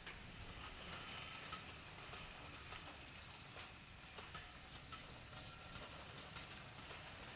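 Passenger coaches of a steam train rolling past, faint, with the wheels clicking over the rail joints about once a second over a low rumble.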